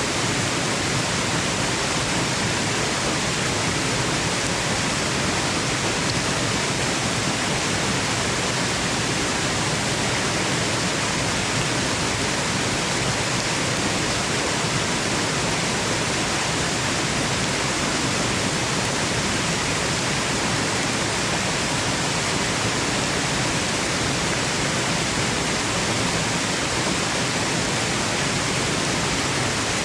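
Steady, even rushing of a waterfall, with no change in level: a continuous water noise used as white noise for sleep.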